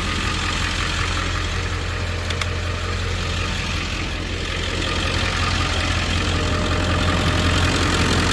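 Pickup truck engine idling steadily, getting a little louder in the second half.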